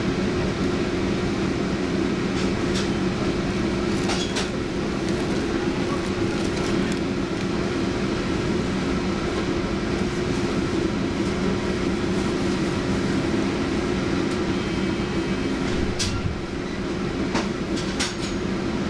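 Toyama Chihō Railway 'Centram' low-floor streetcar running, heard from inside the car: a steady motor hum over rolling wheel noise, with a handful of sharp clicks from the wheels over rail joints.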